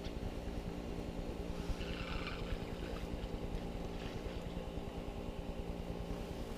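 A steady low mechanical hum of a running motor, with a brief faint hiss about two seconds in.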